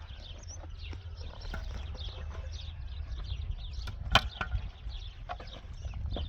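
Small birds chirping over and over in short falling notes, with a low rumble underneath and one sharp knock about four seconds in.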